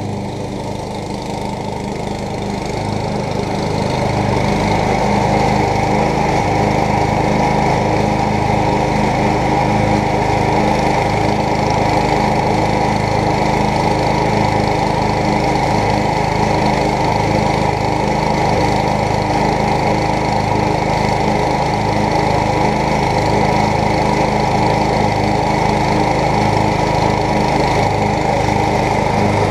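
MTD lawn tractor's engine running steadily, growing louder over the first four seconds and then holding at a steady speed.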